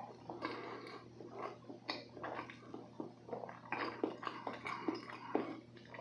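Close-miked chewing of a mouthful of soft roll cake, with many short, irregular mouth clicks.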